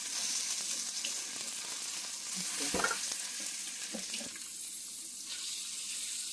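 Sliced onions and green chilies sizzling in hot oil in a pan, a steady hiss, with a few soft knocks as the food is stirred.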